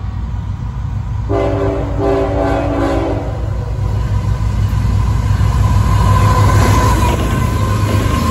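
CSX diesel freight locomotives sounding their air horn about a second in, a short blast run straight into a longer one. Then the engines and wheels rumble louder and louder as the locomotives pass close by, with a steady high whine near the end.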